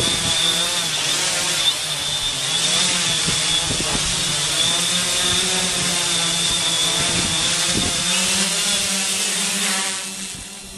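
Camera drone's motors and propellers running at speed: a steady buzz with a high whine, dropping in level near the end.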